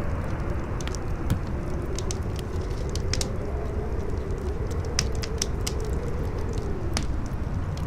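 Campfire crackling, with scattered sharp pops, over strong wind that keeps up a steady low rumble and a howl that slowly wavers up and down in pitch.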